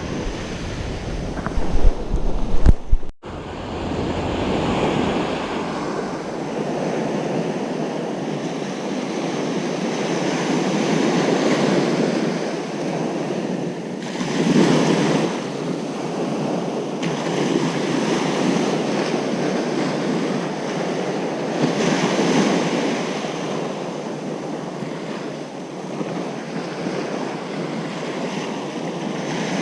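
Ocean surf breaking on a beach, a steady wash of water that swells and ebbs as the waves come in. In the first few seconds wind buffets the microphone with a loud rumble that cuts off suddenly.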